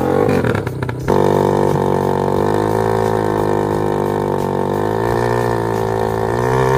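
Kawasaki dirt bike engine running at fairly steady revs, its pitch wavering a little. There is a brief jumbled break in the sound about a second in.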